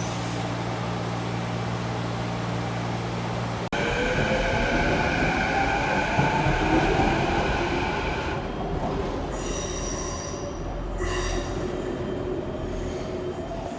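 Vancouver SkyTrain train running with a steady low hum. After an abrupt cut about four seconds in, the train's motor whine rises in pitch as it moves off, and high-pitched wheel squeals come near the end.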